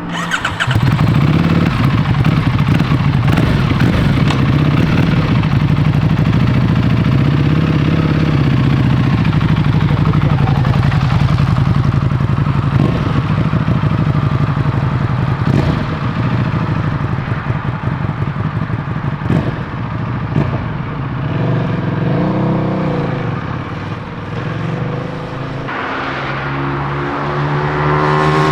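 A Buell's 185-horsepower American V-twin motorcycle engine running loud, with the revs swelling up and down a few times and then climbing sharply near the end as the bike accelerates.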